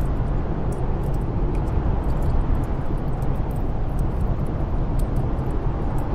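Steady low rumble of snowstorm wind, with small scattered crackles of a wood fire in a fireplace.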